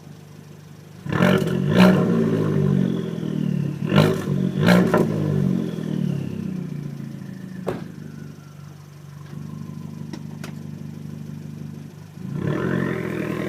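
2013 Fiat 500 Abarth's 1.4-litre turbocharged four-cylinder heard close to its exhaust. It idles, then is blipped in a run of quick, sharp revs from about a second in, falls back to idle, and starts revving again with a rising pitch near the end. A single brief sharp click comes midway.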